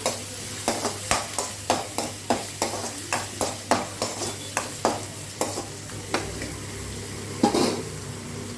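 Small onions sizzling in oil in a kadai while being stirred, the utensil knocking against the pan about three times a second. The stirring slows after about six seconds, with one louder knock near the end.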